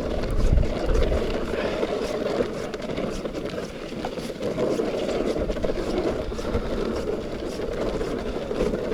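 Strong wind buffeting the microphone on open ice, a steady rough rushing with heavy low gusts in the first second or so.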